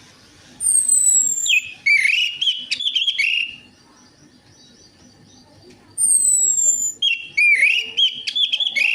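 Orange-headed thrush (anis merah) singing two phrases, each starting with a high, thin falling whistle and running on into a quick warbling twitter. The second phrase comes about five seconds after the first.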